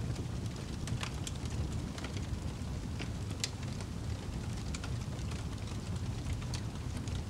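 Wood fire burning in a fireplace: a steady low rumble of flames with scattered sharp crackles and pops at irregular intervals, one louder pop about three and a half seconds in.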